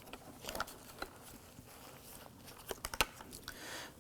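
Exterior car door handle assembly being handled and turned over: scattered light clicks and taps, a few close together about three seconds in, then a soft rustle.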